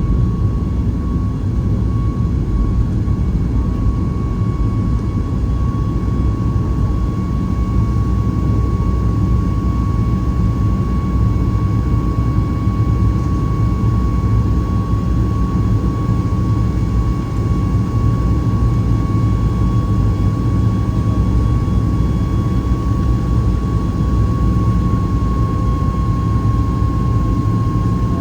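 Steady cabin noise inside a Boeing 737 MAX 8 in flight: a constant low rumble of airflow and CFM LEAP-1B jet engines, with a thin steady hum above it.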